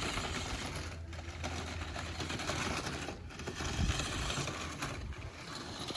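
Remote-control rally car's electric motor whining as it drives, with tyre noise, easing off briefly three times. There is a low thump just before four seconds.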